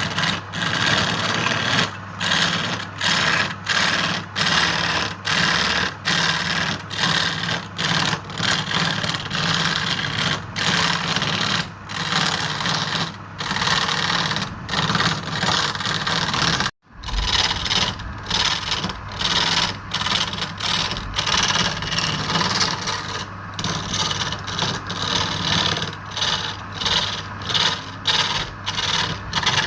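Wood lathe running with a tool scraping against the spinning wood in short repeated passes, over the steady hum of the lathe motor. The sound breaks off for an instant a little past halfway.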